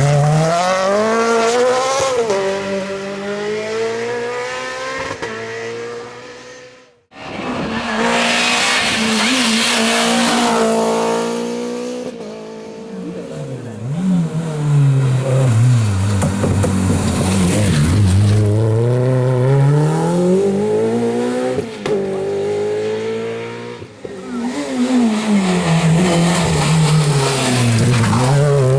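Rally cars at full throttle on a special stage, the engines revving up and dropping back with each gear change and lift, in several short passes cut one after another with a brief gap about seven seconds in.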